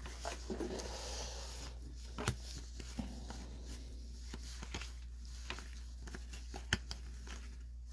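Baseball trading cards being handled and sorted: light rustling and scattered soft clicks as the cards are moved, over a steady low hum.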